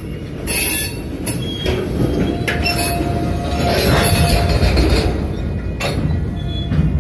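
Freight train of covered hopper cars rolling past: a steady low rumble of wheels on rail that builds toward the middle, with thin wheel squeals and several sharp clanks.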